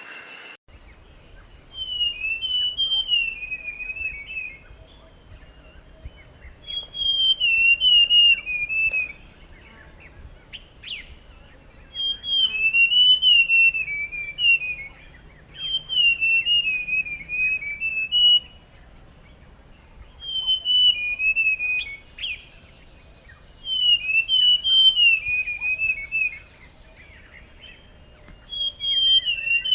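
Buff-brown scrub-robin singing: about six phrases of clear whistled notes that go up and down and step lower through each phrase, with pauses of a couple of seconds between them.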